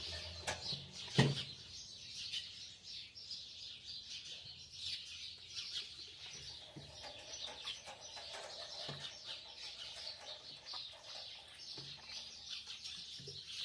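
A chorus of small birds chirping and twittering continuously, with a few soft knocks and one sharper knock about a second in.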